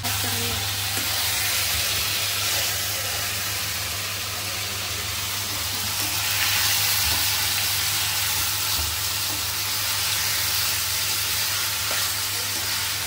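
Food frying in hot oil in a cooking pot, sizzling steadily.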